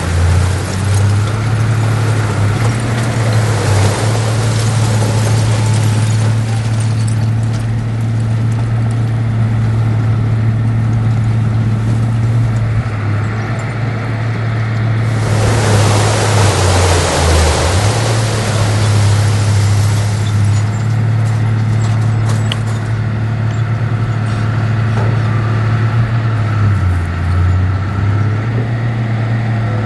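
Heavy diesel engine of earthmoving machinery running steadily, its note dipping briefly twice as the load changes. About fifteen seconds in, a loud rushing hiss lasts some two seconds.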